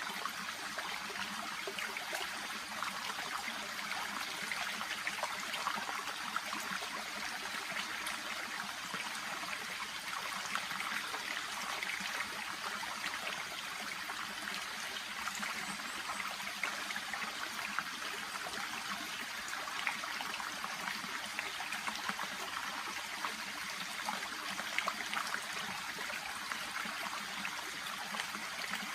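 Shallow brook babbling steadily: continuous trickling water with many small ripples and plops.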